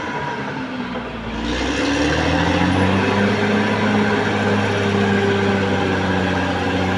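Caterpillar D6R XL bulldozer's diesel engine working under load. It dips briefly about a second in, then revs up and holds a steady, higher pitch.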